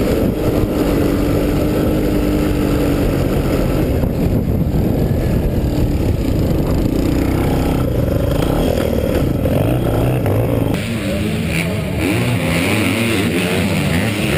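Dirt bike engine being ridden hard, its revs rising and falling again and again.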